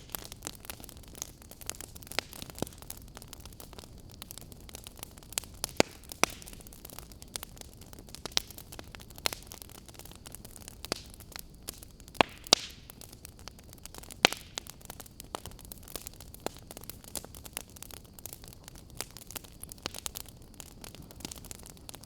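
Fire crackling: irregular sharp pops and snaps over a steady low hiss, with a few louder snaps about halfway through.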